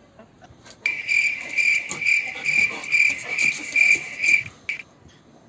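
Cricket trilling: a steady, high, even buzz that starts about a second in and pulses about twice a second, then stops near the end.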